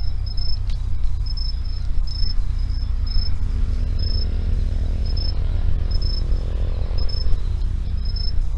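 Insects chirping: short, high chirps repeating at uneven intervals over a steady low rumble. A faint low drone swells and fades in the middle.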